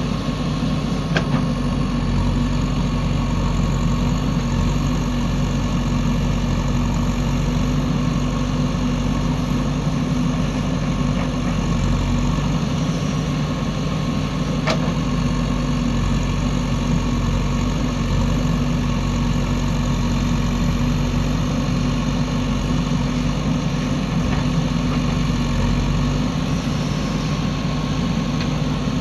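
Diesel engine of a JCB 3DX backhoe loader running steadily at an even speed, with two faint clicks along the way.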